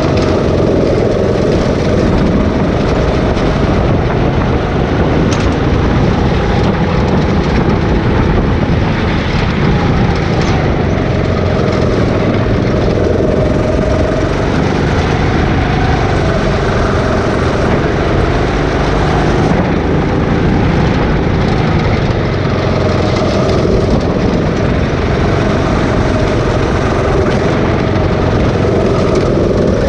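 Go-kart engine running steadily in a race, its pitch wavering a little up and down with the throttle.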